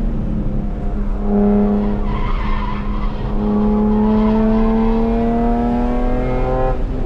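BMW E46 M3's 3.2-litre S54 straight-six accelerating hard on track: the engine note drops about a second in, then climbs steadily for about five seconds and falls away sharply near the end. Tyres squeal briefly around two to three seconds in.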